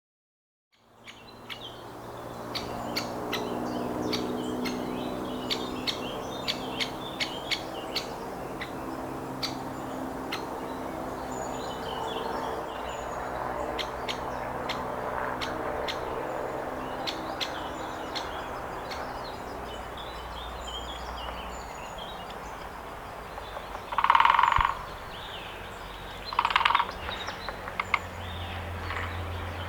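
Wild birds calling and chirping, with a run of sharp, irregular clicks over the first several seconds and a steady low hum underneath that fades out later. Near the end come two louder short calls about two seconds apart.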